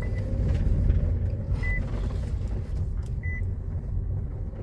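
Interior rumble of a Nissan Serena driving slowly over rough ground, with no knock from the front suspension now that the strut top bearing has been greased. A short electronic beep repeats about every second and a half.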